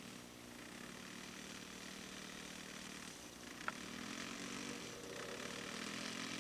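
Engine of a 1/3-scale radio-controlled model airplane running at low throttle while it taxis, its drone fading and swelling. A brief sharp click comes about three and a half seconds in.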